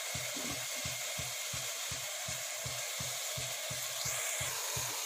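Chicken and onion-tomato masala frying in an aluminium pressure cooker pan, a steady sizzle, with coriander powder just added.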